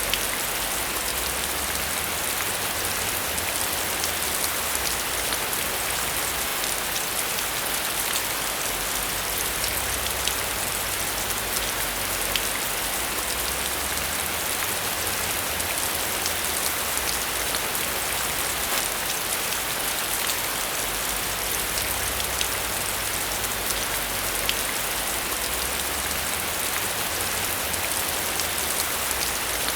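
Steady rain falling on a surface, an even hiss dotted with the small ticks of individual drops.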